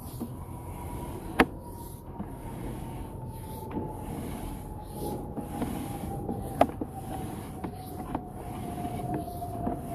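Sewer inspection camera's push cable being pulled back through the pipe, with scattered sharp clicks and knocks, two of them loud. A faint thin tone slowly falls in pitch throughout.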